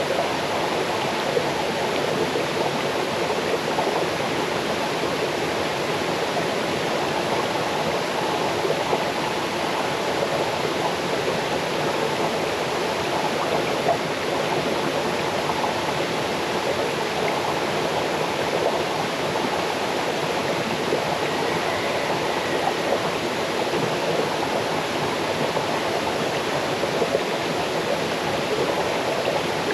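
Small waterfall stream cascading over rocks: a steady, continuous rush of water.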